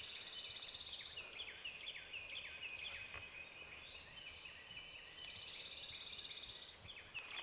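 Dawn woodland birdsong: many short, repeated, downward-slurred whistled notes, and twice a dry, rapid, even trill lasting about a second and a half.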